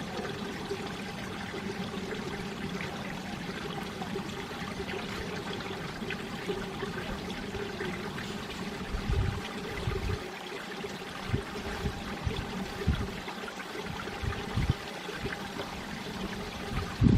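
Mountain stream water running and splashing over rocks in a steady rush. From about nine seconds in, irregular low gusty thumps break in, the loudest being near the end.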